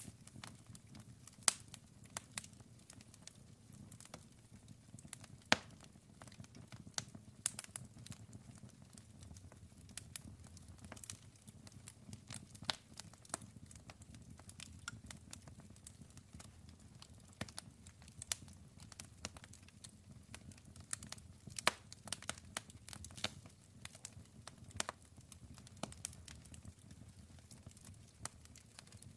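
Wood campfire crackling: irregular sharp pops and snaps, sometimes several close together, over a low steady rumble of burning.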